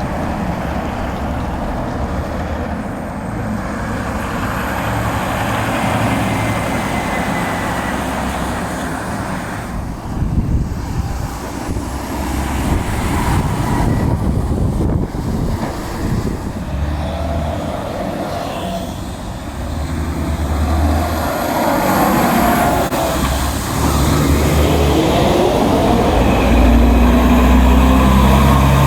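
Heavy diesel dump trucks running on a road, a steady engine rumble that grows louder in the last few seconds as a truck comes closer and its engine pulls harder.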